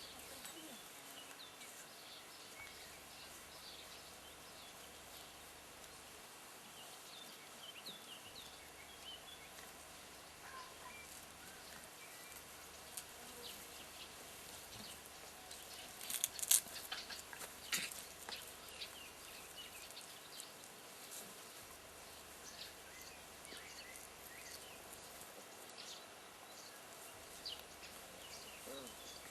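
Faint outdoor background hiss with scattered small high chirps, and a short flurry of clicks and rustling about sixteen seconds in.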